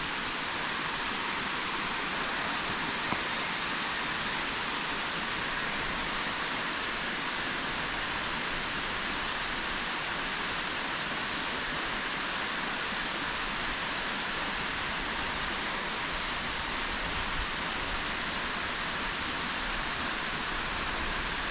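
Steady rush of water pouring over a dam.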